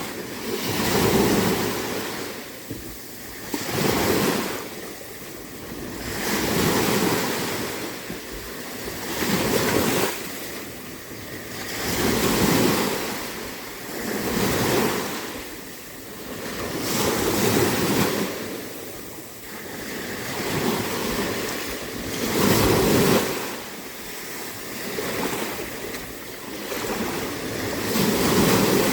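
Small, calm waves washing in and falling back, one gentle swell of rushing water every two and a half to three seconds. Light wind is on the microphone.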